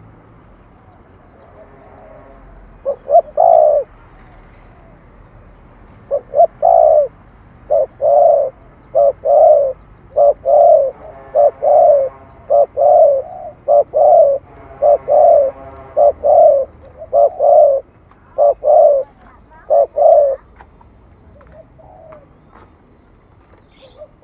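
Spotted dove cooing the fast 'thổ thúc gù' call: a short burst of coos, then a long run of low coos at about two a second that stops about twenty seconds in.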